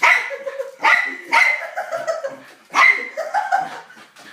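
Pet dog barking, four loud barks with a longer gap before the last.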